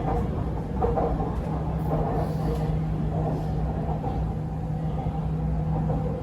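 Inside the cabin of an MRT Purple Line metro train while it runs between stations: a steady low rumble with a constant motor hum and light rattles.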